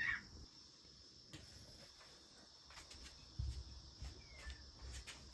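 Faint outdoor ambience: a steady high insect trill, with a few short, falling bird chirps and a couple of low bumps.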